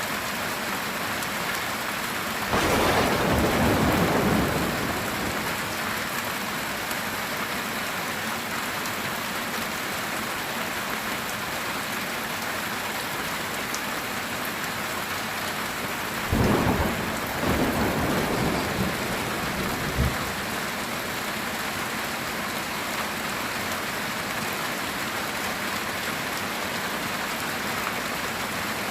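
Heavy rain falling steadily on a metal tin roof, with two rolls of thunder, the first about two and a half seconds in and the second, with a sharp crack at its end, about sixteen seconds in.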